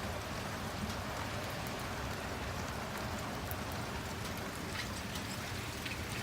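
Steady rain falling, with a few faint drops ticking close by.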